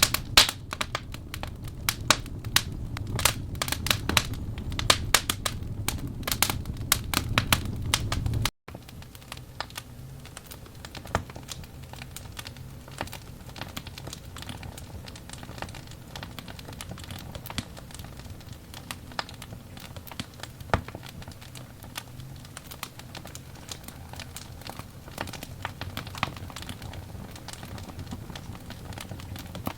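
Burning wood logs crackling and popping, dense and lively with a low rumble of flames at first. About eight seconds in there is an abrupt cut to quieter, sparser crackles.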